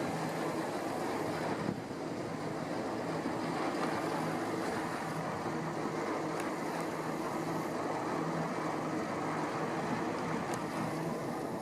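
A passing boat's engine droning steadily under a wash of wind and water noise.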